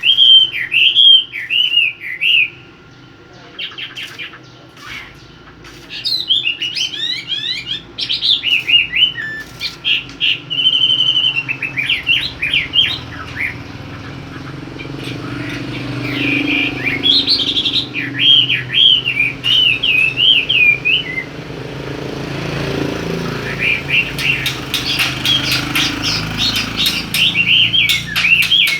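Caged songbird singing in bursts of quick warbling, chirping phrases with short pauses between them. A low hum in the background rises through the middle stretch. Near the end come rapid sharp clicks or flutters.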